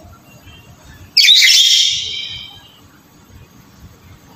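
Black-capped lory giving one loud call about a second in, with rising notes, tailing off over about a second.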